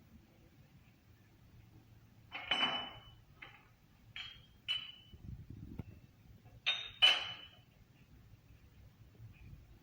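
Metal-on-metal clinks and knocks, about six strikes spread across a few seconds, some ringing briefly with a high metallic tone, as tools and steel parts are handled.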